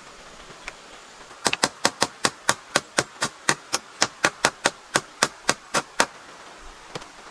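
A hand tool striking wood in a quick, even run of about twenty sharp blows, some four a second. The run starts about a second and a half in and stops a second before the end.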